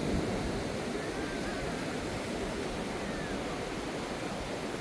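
Steady wash of sea surf breaking on a beach, mixed with heavy rainfall.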